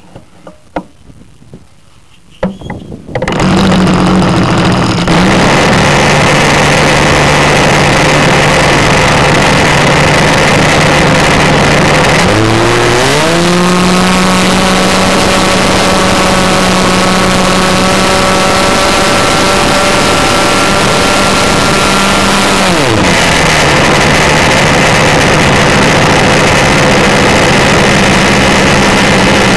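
RC model airplane engine, heard up close from the onboard camera, starts about three seconds in and runs with a steady buzz. Near the middle it throttles up to a higher, steady pitch, and about ten seconds later throttles back to its lower speed.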